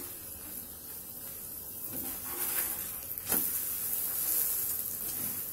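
Oil sizzling under a stuffed paratha on a hot tawa over a high gas flame, a steady hiss, as a spatula presses it down; one sharp tap of the spatula on the tawa a little past three seconds in.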